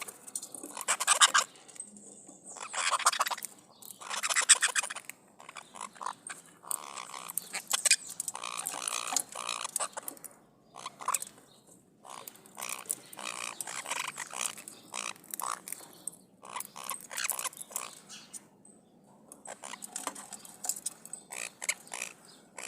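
Maritacas (small parrots) giving harsh, raspy screeching calls in repeated bursts, one after another with short gaps.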